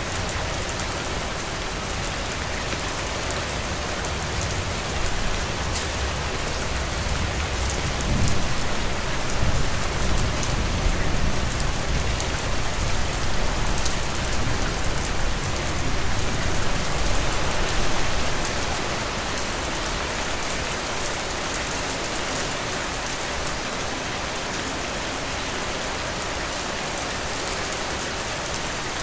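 Heavy rain falling steadily, a dense even hiss of drops. A deep low rumble swells up about eight seconds in and dies away about ten seconds later.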